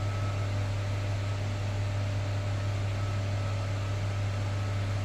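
Electrolux Professional WN6-20 commercial washing machine humming steadily, with a faint thin high whine, while it readies its final spin.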